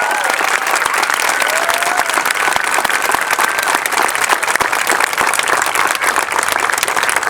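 Audience applauding steadily, with a few whistles and shouts in the crowd.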